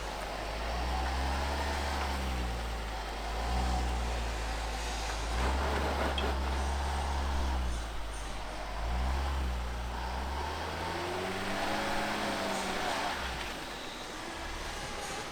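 Range Rover L405 driving on road on new Toyo Open Country A/T III all-terrain tyres: a steady low road rumble under an engine note that rises and falls in pitch several times. The tyre noise is low; the driver calls the tyres super quiet.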